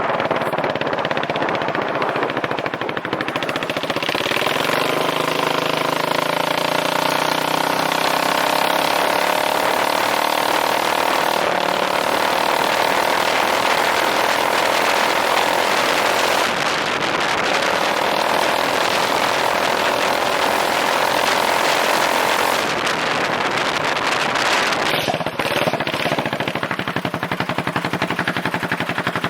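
Straight-piped Yamaha Majesty 400 scooter's single-cylinder engine running with no muffler: loud, a rapid train of exhaust pulses at a fairly steady pitch, easing off about 22 seconds in.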